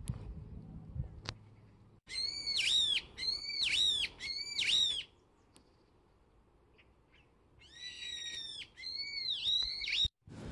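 A bird calling in the woods: three drawn-out calls that rise and fall in pitch, about a second apart, then after a pause a second run of similar calls near the end.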